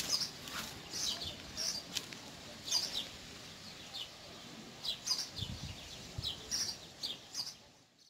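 Small birds chirping outdoors: many short, high chirps repeated irregularly, fading out near the end.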